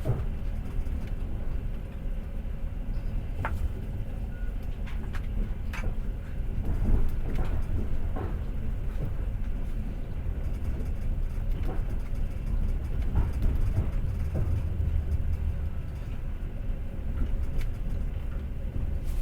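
Passenger train running at speed, heard from inside the carriage: a steady low rumble of the wheels on the rails, with irregular clicks and knocks from the wheels and the car body.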